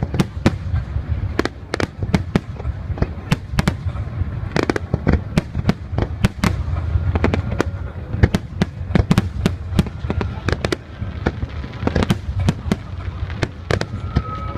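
Fireworks display: a fast, irregular run of sharp bangs and crackles, several a second, over a steady low rumble.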